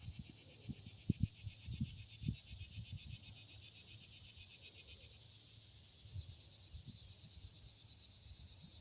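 Insects trilling: a high, rapidly pulsing buzz that swells about two seconds in and fades toward the end. Low knocks and rumble from handling or wind on the microphone sound underneath.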